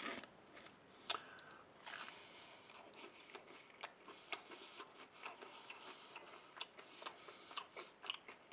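A man chewing a mouthful of thin-crust vegan pizza: faint, irregular mouth clicks and smacks, a few every second.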